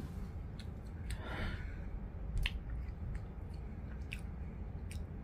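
A person chewing a mouthful of seasoned potato crispers, with a few sharp mouth clicks spread through the chewing.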